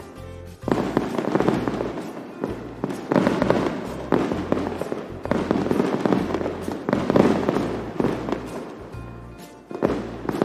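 Aerial fireworks going off in a string of bursts, each sudden bang trailing into crackle, over background music with a steady low bass.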